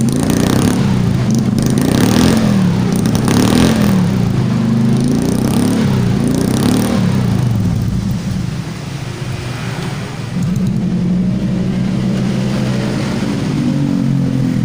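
Suzuki Jimny engine revved in a series of quick blips through its exhaust, then settling to a steady idle for the second half.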